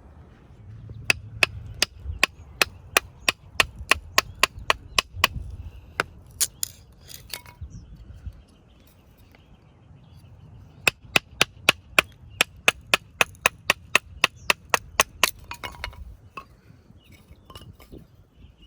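Wood being chopped into kindling: sharp, quick knocks, about three a second, in two runs of several seconds with a short pause between.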